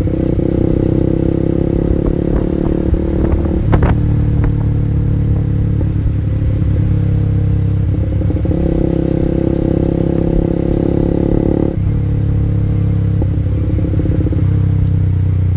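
A Honda CB150R's single-cylinder engine runs through an R9 Alpha Series aftermarket exhaust at a fairly steady pace. There is a sharp click about four seconds in, and the note eases off suddenly near twelve seconds before picking up again.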